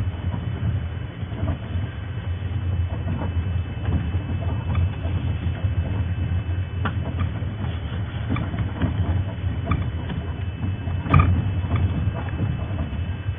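Safari game-drive vehicle driving, a steady low engine rumble with irregular rattles and knocks, and one sharper knock near the end.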